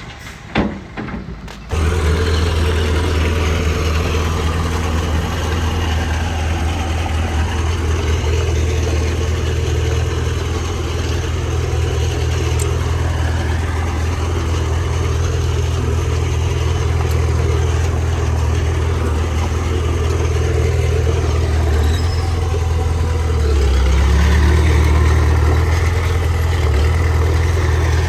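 Heavy diesel earthmoving engine running steadily with a deep hum. It cuts in abruptly about two seconds in, after a few short knocks. Near the end it gets louder and deeper, as if under more load.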